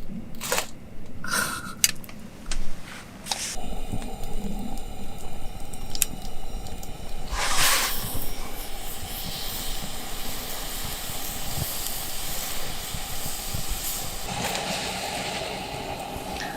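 Meat sizzling as it cooks: a steady hiss that swells briefly about halfway through, after a few sharp clicks and knocks at the start.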